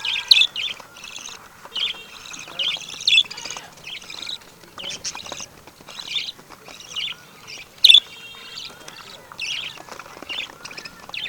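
Several birds chirping and twittering in quick succession, short high calls overlapping, with one sharper, louder call about eight seconds in.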